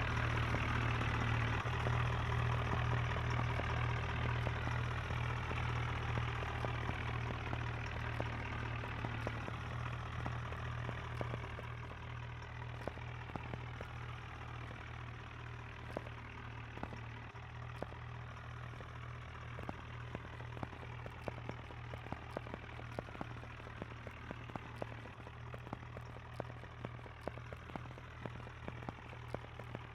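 Tractor diesel engine running steadily. It grows quieter about eleven seconds in, with frequent sharp ticks over the engine note.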